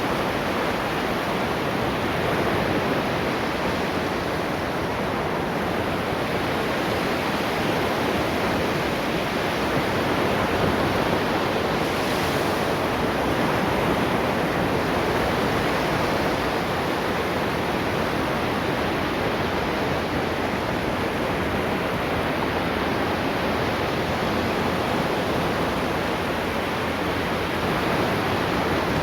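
Ocean waves breaking and washing on a beach, a steady continuous surf.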